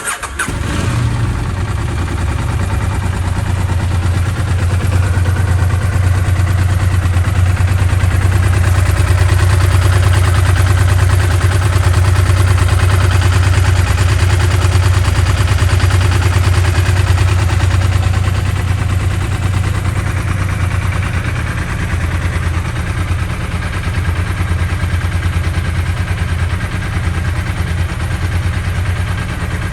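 KTM 890 Rally's parallel-twin engine starting cold, catching at once and settling into a steady idle that eases slightly lower after about eighteen seconds. The owner posts this start as showing the bike's cold-start issues.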